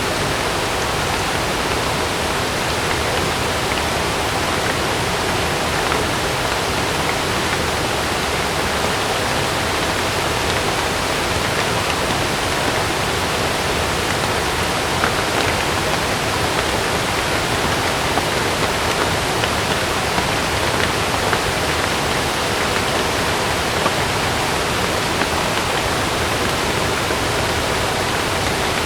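Heavy rain falling steadily on a camping tent, an even rushing hiss with a few faint ticks scattered through it.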